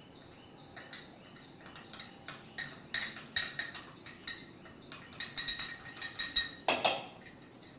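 Metal utensils and bowls clinking and tapping, with a short metallic ring on some strikes, as sorghum flour is tipped and scraped into a mixing bowl. A louder scrape comes near the end.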